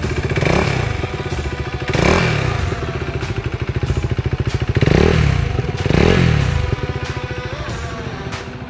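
KTM RC 390's single-cylinder engine idling, given four quick throttle blips that rev it up and let it drop straight back: about half a second in, at two seconds, and twice more around five and six seconds in.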